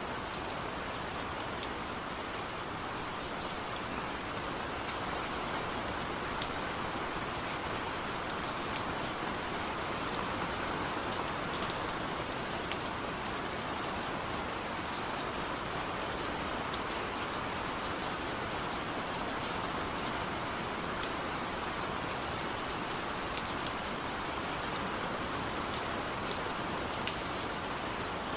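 Steady rainfall, an even hiss with scattered sharper ticks of individual drops hitting a surface.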